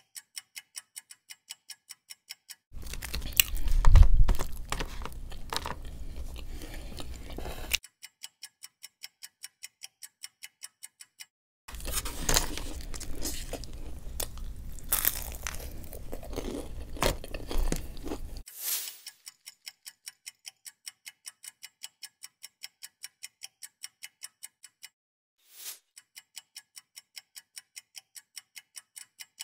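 Close-miked chewing and crunching of food in two stretches, the first with a loud bump at its start. Between and around them is a steady ticking, a few ticks a second, like a clock.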